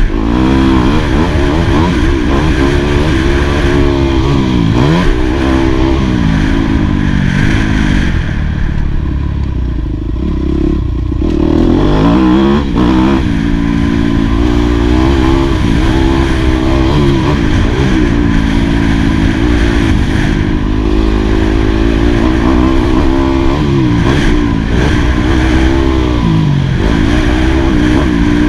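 2018 Yamaha YZ250F's 250 cc four-stroke single-cylinder engine being ridden hard on a motocross track, the revs climbing and dropping again and again as the throttle is opened and closed, with a brief easing off about ten seconds in.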